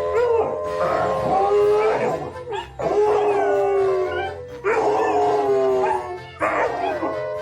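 A dog howling in a series of long drawn-out calls, about five of them, each trailing off slightly at the end.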